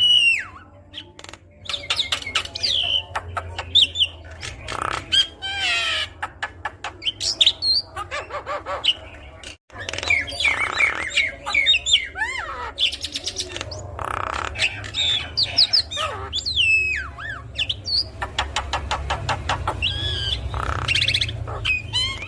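Javan myna (jalak kebo) singing a busy, varied song of gliding whistles, rapid clicking rattles and short harsh calls, with a brief break a little before halfway.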